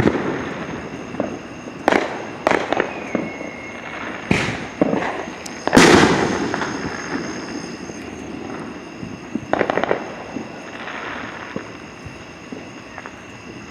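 Fireworks going off: a series of sharp bangs, the loudest about six seconds in with a long rolling echo. A quick burst of crackles follows near ten seconds.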